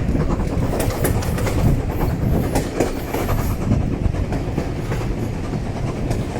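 Steam-hauled passenger train running, heard from inside a carriage: a steady rumble of the wheels on the track.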